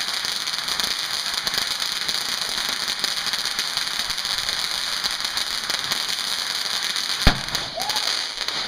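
A firework burning with a steady, loud, crackling hiss. A single sharp bang comes near the end.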